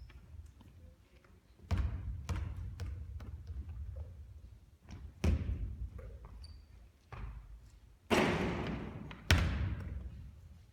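Basketball thudding and bouncing on a court during shooting practice: a string of single thuds, with two louder ones about eight and nine and a half seconds in that ring on briefly.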